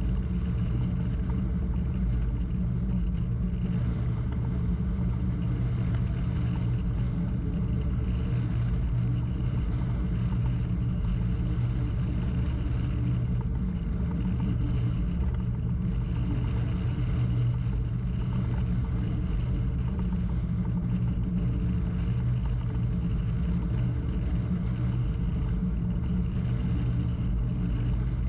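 Boat engine running steadily with a constant low hum, heard on board a crew-transfer boat.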